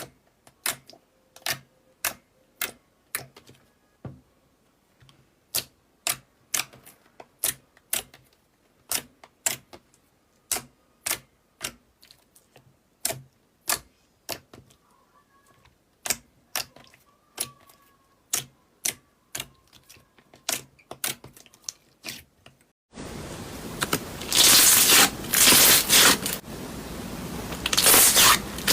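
Slime being squeezed and poked, making sharp clicking pops about two or three a second, with short pauses. After about twenty-three seconds this switches abruptly to a louder, continuous crackling and scraping.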